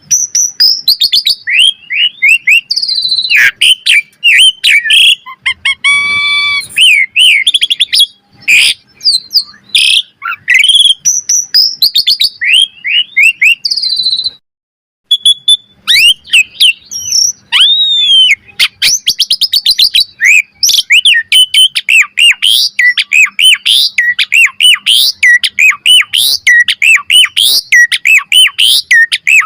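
Asian pied starling (jalak suren) singing a loud, varied song of rapid whistles, chirps and harsh nasal notes. It breaks off for about a second near the middle, then goes on in a fast run of repeated chirps.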